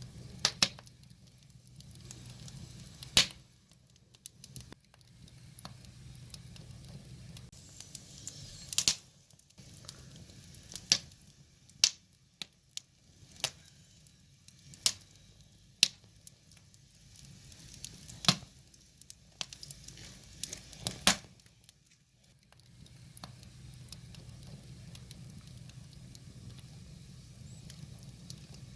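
Wood fire crackling: about ten sharp pops at irregular intervals over a low, steady rumble of the burning fire.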